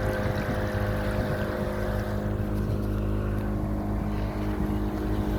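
Motorboat engine running steadily at an even pitch, with water and wind noise.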